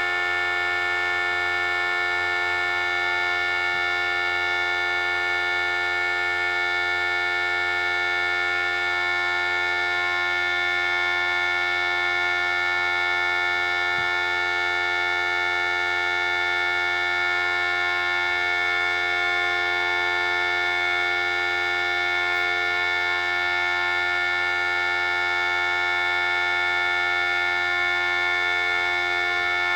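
Model 5T and 2T outdoor warning sirens sounding a steady alert tone together: a loud, unwavering chord of several pitches that holds without rising or falling.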